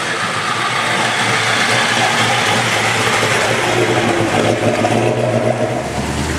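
Car engine running close by, getting louder toward the middle, with a deeper low rumble coming in near the end.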